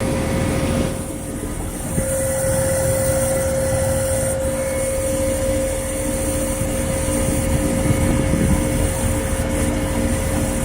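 Outdoor unit of a Trane XE1100 Weathertron heat pump running in cooling mode, a steady compressor and fan hum. About two seconds in, a steady whine joins it and holds. It is a noise the owner cannot explain but says older Trane units often make.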